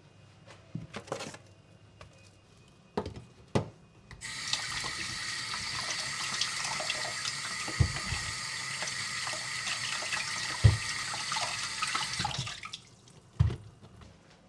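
Kitchen tap running into a sink for about eight seconds, starting and stopping abruptly, with a few knocks of things being handled before, during and after; the loudest knocks fall while the water runs.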